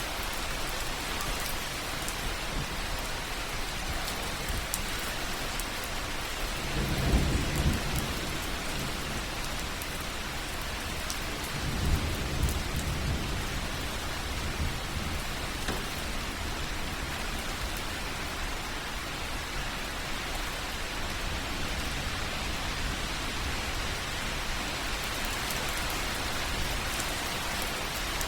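Slow rain or drain water dripping onto soft ground, a steady hiss of many fine drips. Two short low rumbles stand out, about seven and twelve seconds in.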